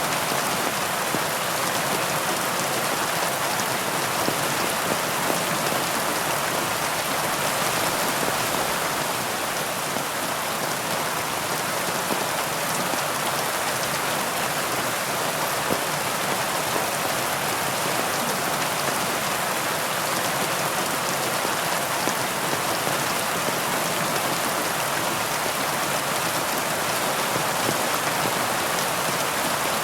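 Steady heavy rain falling on foliage, an even hiss of many drops with faint individual drop ticks.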